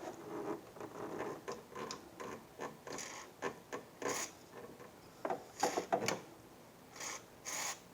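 Irregular small plastic clicks, scrapes and rattles from the printhead carriage and its release lock inside an Epson WorkForce WF-7720 printer, worked by hand. The lock had been stuck up by dried ink and has just been sprayed with silicone lubricant to free it.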